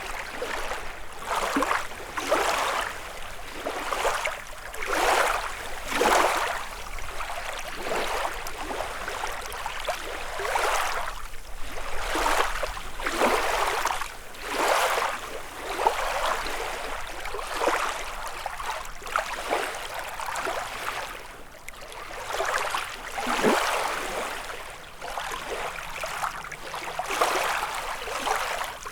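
Small lake waves lapping and breaking against the shore in quick, irregular surges, roughly one every second.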